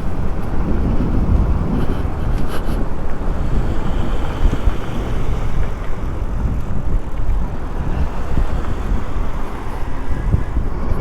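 Wind buffeting the microphone of a moving electric bike, a steady, loud low rush mixed with road noise.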